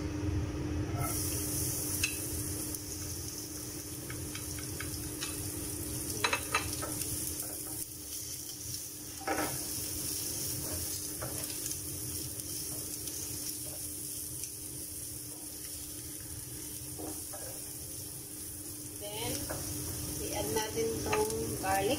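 Minced shallots sizzling as they sauté in hot oil in a nonstick frying pan, the sizzle starting about a second in as they go into the pan. A wooden spatula stirs and scrapes them, with a few short knocks against the pan.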